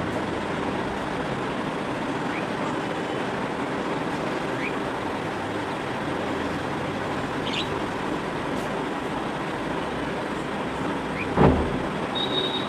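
Steady road-traffic noise with a few faint, short bird chirps over it, and a brief loud thump near the end.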